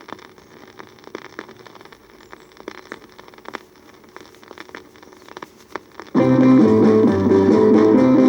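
Vinyl record crackle and scattered clicks in the quiet groove between two songs. About six seconds in, the next song starts abruptly with a band intro of strummed electric guitar over bass.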